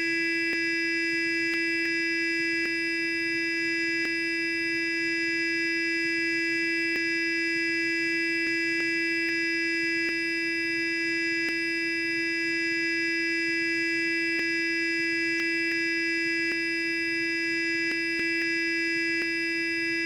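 Sonic electric toothbrush running continuously, a steady high-pitched buzz that never changes pitch or level, with a few faint clicks.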